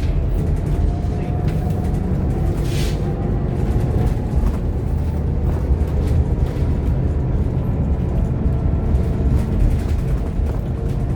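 Scania K230UB OmniLink single-deck bus on the move, heard from inside the saloon: steady diesel engine drone and road rumble with a faint whine, light rattles, and a short hiss about three seconds in.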